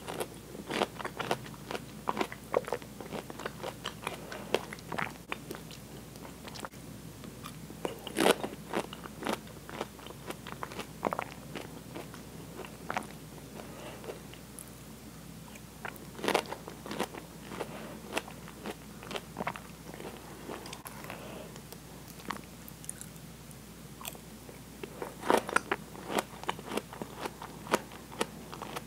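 Close-miked eating: biting and chewing pieces of fresh pineapple, a run of quick sharp mouth clicks in bouts, with the loudest bites about 8, 16 and 25 seconds in.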